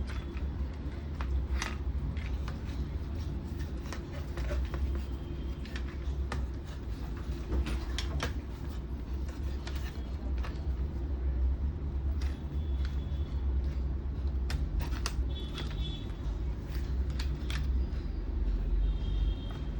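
Scattered light clicks and taps from handling monitor parts and plugging in connectors, over a steady low rumble.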